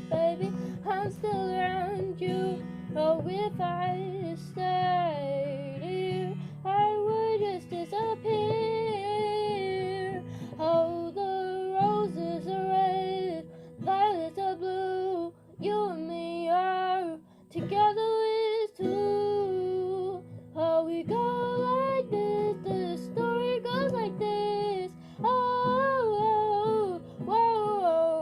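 A female voice singing a melody with acoustic guitar accompaniment, with a few short breaks between phrases.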